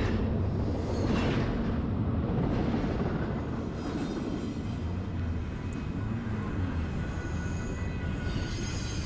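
Long double-stack freight train rolling around the loop's curve: a steady low rumble, with faint high-pitched wheel squeal coming in near the end.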